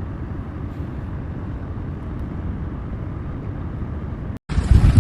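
Steady low road rumble of a moving car. About four and a half seconds in, an abrupt cut to louder wind noise buffeting the microphone.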